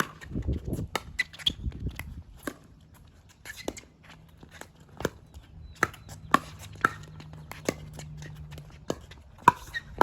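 Pickleball rally: paddles striking the hard plastic ball again and again, about a dozen sharp pops at uneven intervals.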